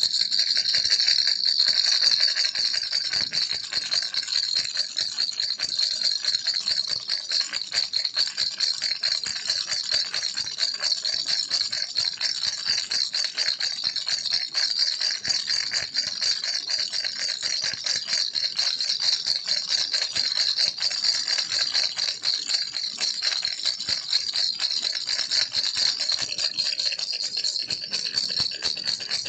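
Baby's toy rattle shaken without pause, a dense, steady stream of small clicking beads with a bright, high sound.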